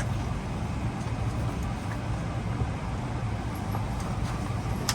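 Steady low rumble and hiss of vehicle interior noise, with no distinct events.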